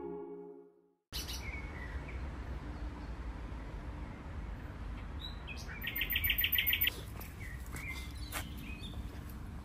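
Music fades out, and after a moment of silence birds chirp over a steady low rumble. The loudest part is a quick run of about eight high chirps around six seconds in.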